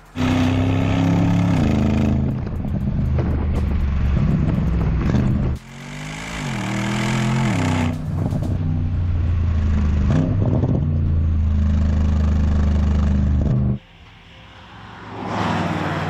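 Porsche Panamera Turbo S's 4.0-litre twin-turbo V8 running at speed, its pitch rising and falling, the sound jumping abruptly about five and a half and fourteen seconds in. Near the end it swells as the car passes close, then fades as it drives away.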